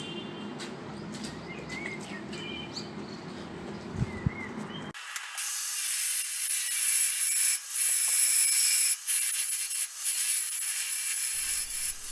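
Low background with a couple of light knocks. About five seconds in, an angle grinder's cutting disc cutting through metal comes in, played back fast-forwarded so it sounds like a high, even hissing rush with no low end.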